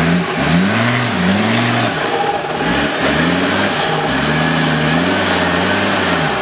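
Offroad 4x4 engine revved up and down in a series of quick rises and falls in pitch, then held steadier for the last couple of seconds.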